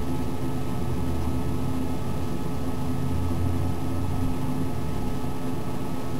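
A computer running: a steady machine hum with a few constant tones held throughout.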